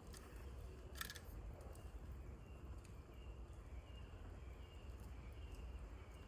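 Faint quiet-forest ambience: a steady low rumble, one sharp click about a second in, and short high chirps repeating about twice a second.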